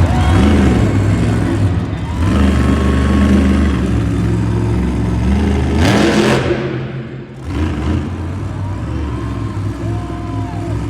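Monster truck's supercharged V8 running hard and revving during a freestyle run, with a sharp surge about six seconds in and a brief drop just after.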